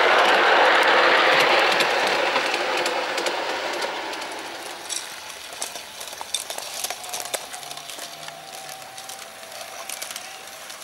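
Garden-scale model train running past on its track, its wheels clattering on the rails, loud at first and fading away over a few seconds. Only faint clicks and ticks remain after that.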